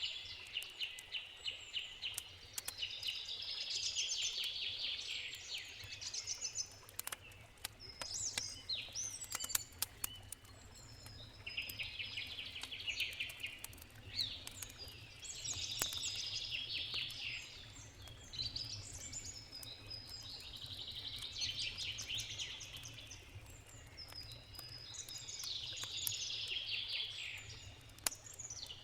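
A songbird singing short trilled phrases, one every three or four seconds, with a few sharp crackles from a wood campfire in between and a steady low rush underneath.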